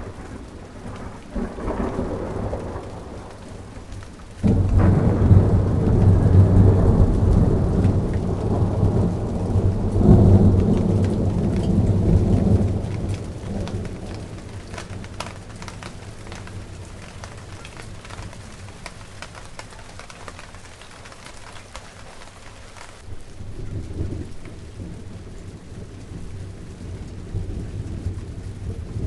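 Steady rain with a roll of thunder that breaks in suddenly about four seconds in, rumbles for about eight seconds and fades away. A fainter rumble returns near the end.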